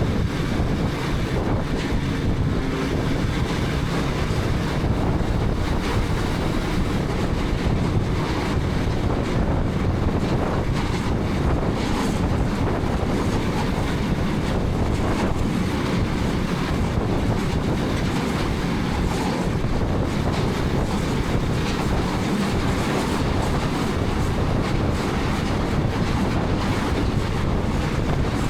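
KTM 250 Adventure motorcycle ridden at a steady pace, heard from a helmet-mounted camera: wind buffeting the microphone over the running single-cylinder engine and road noise.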